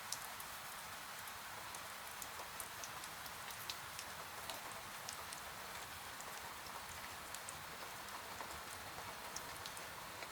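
Steady rain hiss with irregular sharp crackles and pops from a wood fire burning in a fireplace.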